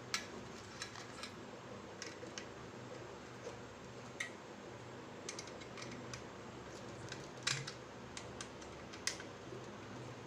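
Irregular light clicks and taps of hard parts being handled and set in place while a Peltier cooling unit with an aluminium carrier is assembled; the sharpest clicks come just after the start, about seven and a half seconds in, and about nine seconds in.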